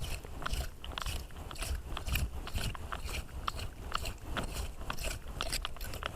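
Hand clam scraper or rake dragged through wet beach sand in quick repeated strokes, about two or three a second, with a gritty scraping crunch: digging for hard clams.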